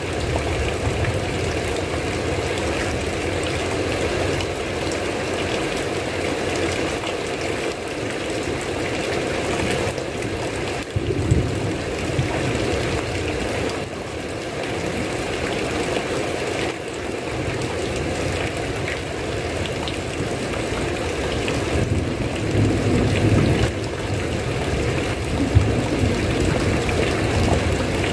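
Steady heavy rain, with low rumbles that swell briefly about a third of the way in and again later on.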